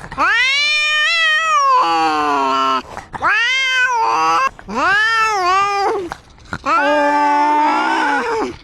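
Domestic cat meowing loudly: four long, drawn-out meows, each rising and then falling in pitch, with short pauses between them.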